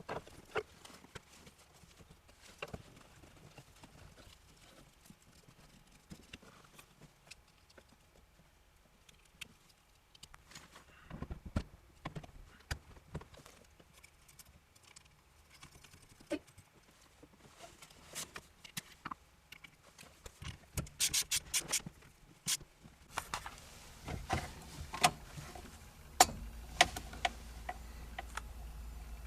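Scattered clicks and knocks of parts and tools being handled. About 23 seconds in, a steady low hum starts with more clicks over it, like a small electric motor running.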